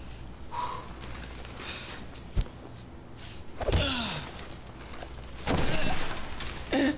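Fight-scene sound effects: a sharp thud about two and a half seconds in, a heavier hit with a falling tone just before four seconds, then a longer loud stretch around six seconds and a short final hit near the end.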